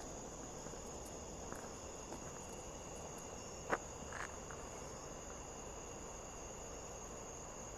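Night insects, crickets, trilling steadily at several high pitches at once. A single sharp click sounds a little under four seconds in.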